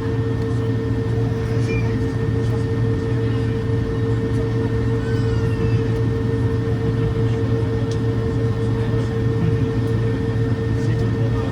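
Steady drone inside an airliner cabin after landing, the engines and ventilation running with a constant mid-pitched hum over a low rumble.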